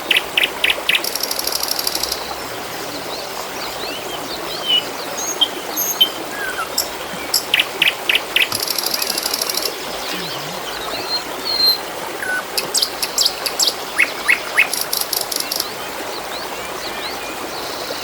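Trickling water runs steadily while small birds chirp over it. There are several bursts of about four quick, high notes, and a few buzzy high trills lasting about a second each.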